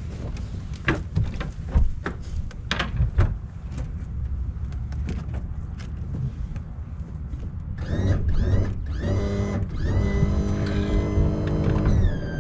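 A low rumble of wind on the microphone with a few knocks on the boat in the first seconds. From about eight seconds in, the boat's motor starts whining, rising in pitch, holding steady, then dropping again just before the end.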